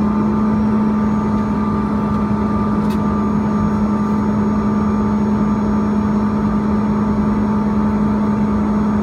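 Cabin noise of a Bombardier CRJ-200's rear-mounted General Electric CF34 turbofan engines running steadily: a constant low hum over an even rumble, with a couple of faint ticks.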